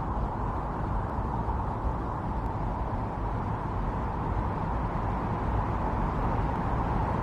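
Strong wind blowing steadily in a snowstorm, a continuous low rushing noise that swells slightly.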